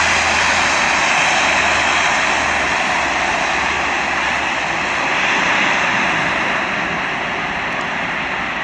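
Flybe airliner's engines running loud and steady at close range, easing off slightly near the end.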